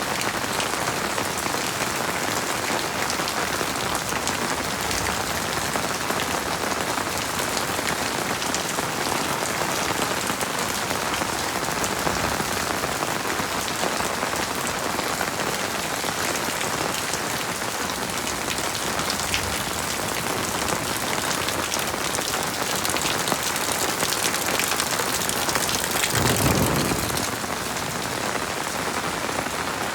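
Heavy rain falling steadily, a dense even hiss of drops. Near the end, a brief low rumble rises over it for about a second.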